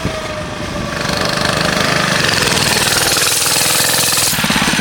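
A 110cc mini bike engine running close by, its rapid firing pulses steady. It grows louder about a second in as the bike comes near. Near the end the sound turns lower and less hissy.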